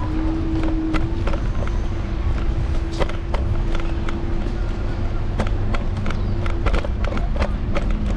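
Apollo Explore electric scooter rolling over rough pavement, heard from its handlebars: a steady motor whine over a low road rumble, with frequent sharp rattles and clicks.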